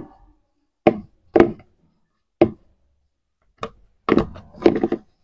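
Irregular knocks and taps from objects being handled and set down, about seven separate strokes, several close together near the end.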